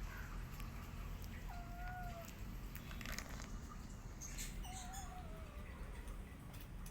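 Kittens mewing: a few thin, wavering mews, one about a second and a half in and another near five seconds, over faint scattered clicks and a low hum.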